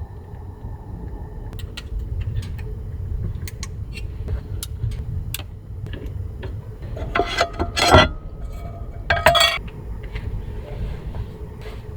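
Kitchenware clinking and clattering inside a car: scattered light clinks, then two louder clatters with a brief ring, over a steady low rumble of strong wind buffeting the car.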